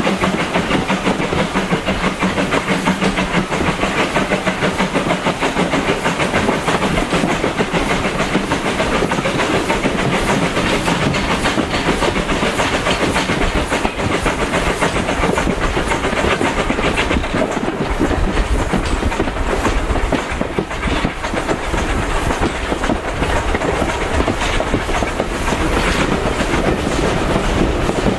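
Train running along the line behind an LB&SCR A1 'Terrier' steam tank engine, a steady, busy clatter of wheels on rails. A deeper rumble grows about two-thirds of the way through.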